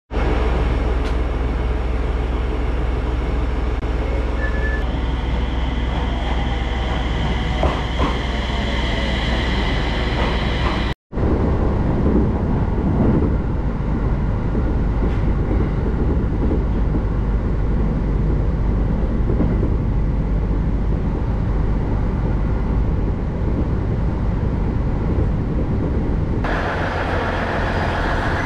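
Running noise of a train heard from inside a carriage: a steady rumble with a low hum, broken by sudden cuts between clips about eleven seconds in and again near the end.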